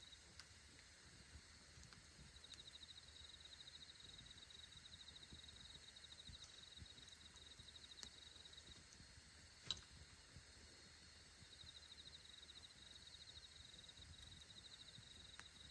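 Faint campfire crackling, a few sharp pops with the loudest nearly ten seconds in, over a high, rapidly pulsing insect trill that comes and goes in bouts of a few seconds.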